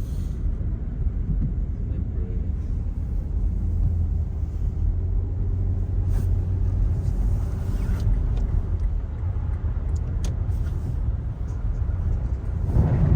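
Steady low rumble of a car's engine and tyres, heard from inside the moving car, with a few faint clicks and a brief swell in level near the end.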